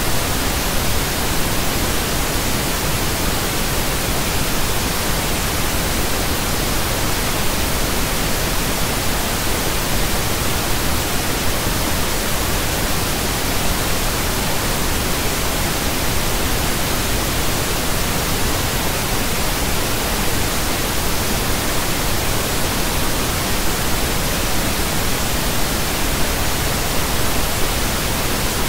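Pink noise: a steady, even hiss spread across all pitches, with more weight in the lows than white noise has, unchanging throughout.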